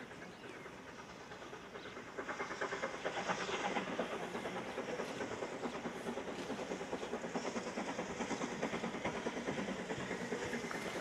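Railway coaches passing close by, their wheels clattering rapidly and evenly over the rails, getting louder about two seconds in and staying loud.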